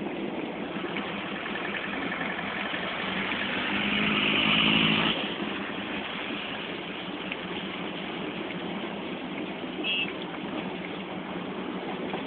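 Steady running noise of the Darjeeling Himalayan Railway train heard from its carriage, with a road vehicle's engine swelling as it passes close alongside about four seconds in and cutting off abruptly about five seconds in. A short high beep near ten seconds in.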